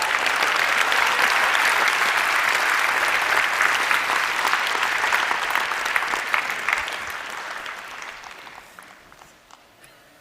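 Large audience applauding, loud and sustained, dying away over the last few seconds.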